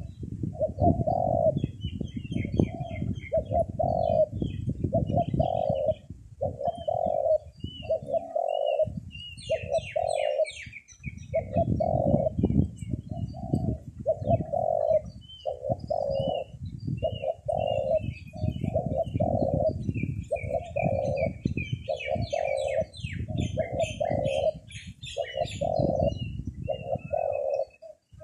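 Dove cooing over and over, short low coos about one a second, while wind rumbles on the microphone. Small birds chirp and twitter higher up, most densely around ten seconds in and again near the end.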